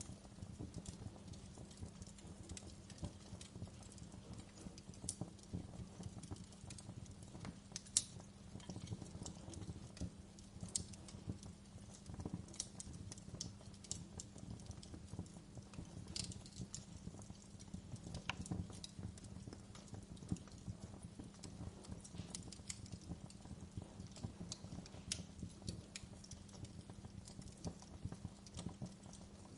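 Wood fire crackling: a steady scatter of small sharp pops and snaps, with one louder snap about eight seconds in, over a low steady hum.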